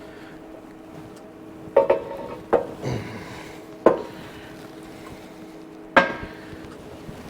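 Metal clanking: four sharp, ringing clanks of steel parts knocked together, spaced irregularly over a few seconds, with a steady low hum underneath.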